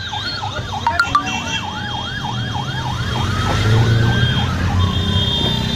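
Emergency vehicle sirens sounding together. One runs a fast yelp of about three rising sweeps a second and stops about halfway. The other runs a slow wail that rises and then falls, over a low engine rumble.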